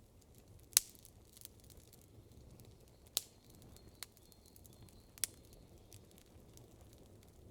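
Wood campfire crackling, with a few sharp isolated pops, the loudest about a second in, over a faint low background.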